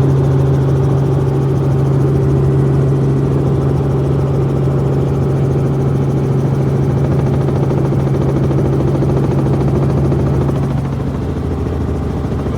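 Helicopter running steadily with a constant low droning hum, easing off slightly about ten seconds in.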